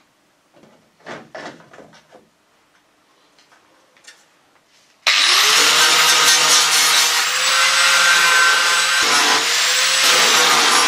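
A few faint knocks and handling sounds, then about halfway through a handheld electric power tool starts suddenly, its pitch rising as it spins up, and runs loud and steady on the damaged steel front valence being repaired.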